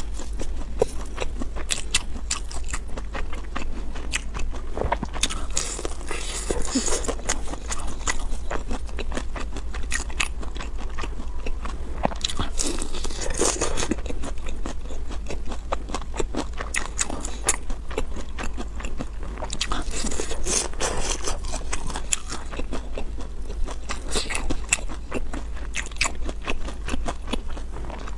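Close-miked biting and chewing of crispy breaded fried chicken nuggets: crunches and wet mouth clicks, with louder crunching bursts at each fresh bite.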